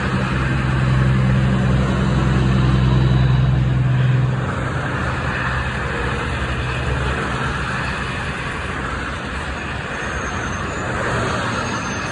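A motor vehicle's engine running with a steady low hum that fades away about four seconds in, leaving the rushing noise of street traffic.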